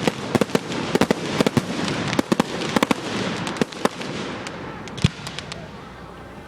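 Fireworks display: a rapid barrage of many sharp bangs and crackles for about four seconds, thinning out, with one last loud bang about five seconds in.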